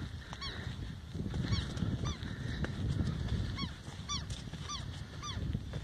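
A bird calling: short notes that rise and fall in pitch, repeated every half second or so, over a low rumble.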